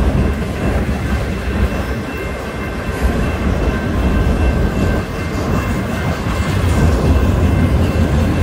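CN freight train rolling past, a steady loud rumble of rail cars on the track with faint steady high-pitched tones from the wheels.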